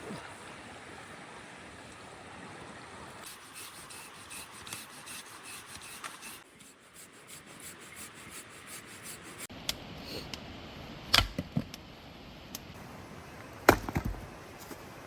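Chopping on wood: light ticking and rubbing, then a few sharp chopping strikes, the loudest about eleven and fourteen seconds in.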